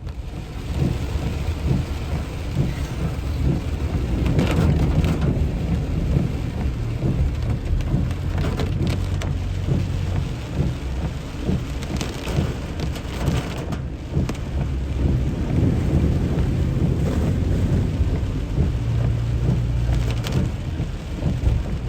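Heavy rain pouring down during a flash-flood storm, with a constant deep rumble underneath and many sharp patters of drops striking close by.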